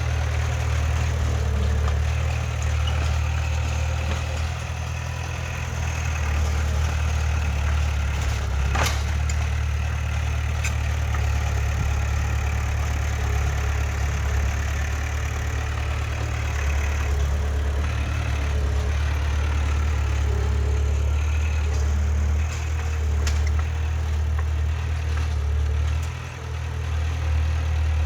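Heavy diesel earthmoving machinery running steadily with a deep, even drone, and one sharp knock about nine seconds in.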